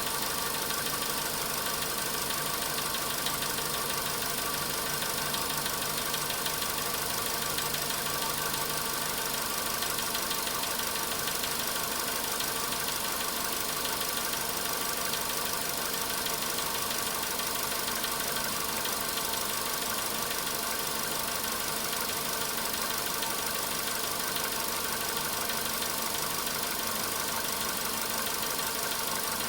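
Volkswagen Polo Sedan engine idling steadily, still cold after a cold start, with a fast steady knock running through it: the cold-engine knock that the owner is timing until it fades as the engine warms.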